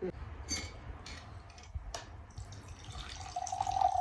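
Water being poured into a drinking vessel, starting about three seconds in, its tone climbing slowly as the vessel fills. A few light clicks come before it.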